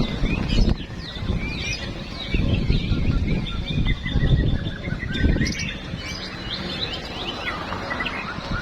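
Several caged white-rumped shamas (murai batu) singing at once: a dense run of quick whistled chirps and trills, over a low rumbling noise.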